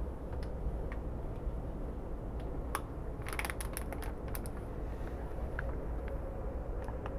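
Inside a moving SEPTA regional rail car: a steady low rumble from the train running along the track. About three seconds in comes a quick cluster of sharp clicking rattles.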